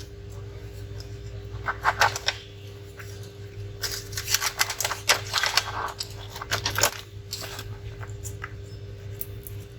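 Irregular clicks, taps and scraping of a disassembled laptop's parts being handled, busiest in the middle, over a steady low hum.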